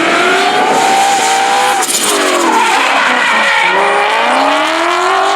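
Drift car's engine revving hard and rising in pitch with its tyres skidding. The revs drop sharply about two seconds in, then climb again for the rest.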